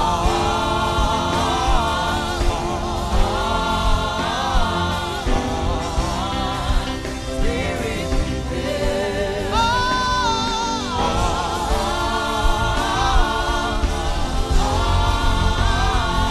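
Wordless hummed or sung gospel-style melody in phrases of a second or two, the voice wavering with vibrato and rising to a higher phrase about ten seconds in, over instrumental backing with a steady low bass.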